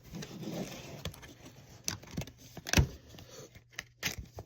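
Toys and packaging being handled and moved in a box: a series of sharp clicks and knocks of hard plastic, the loudest a little before the three-second mark, over light rustling.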